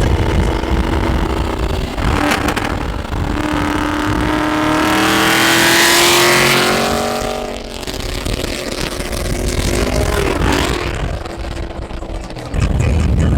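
V8 muscle car accelerating hard at highway speed, its exhaust note climbing in pitch and loudest about six seconds in, then easing off, with a second, smaller pull a few seconds later. Wind rumble sits under it at the start and returns suddenly near the end.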